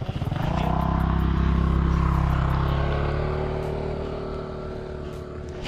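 A motor vehicle engine picking up just after the start, then running steadily and slowly fading away.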